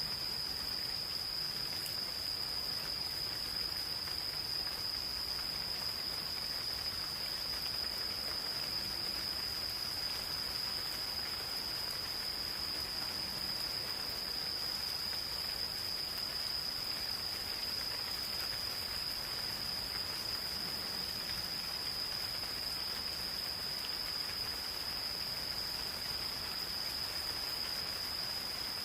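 Gentle rain falling in a forest, an even hiss, with insects calling in a single steady, unbroken high-pitched trill.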